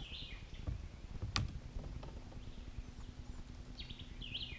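Two short bird calls, one near the start and one near the end, over outdoor background noise, with a sharp knock about a second and a half in and a faint steady low hum after it.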